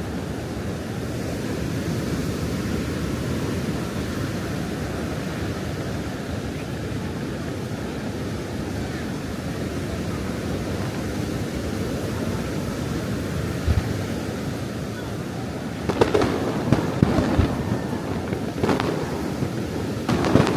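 Fireworks display: a steady rushing noise of surf and wind, then about three-quarters through a quick cluster of sharp firework bangs, with another burst near the end.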